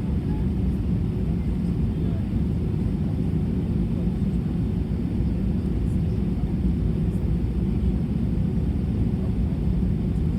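Steady low rumble of an Airbus A320's jet engines and rushing air, heard from inside the passenger cabin.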